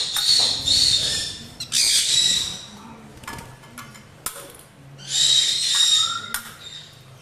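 Pet birds giving harsh, drawn-out screeching calls in several bouts, with a couple of sharp clicks in between.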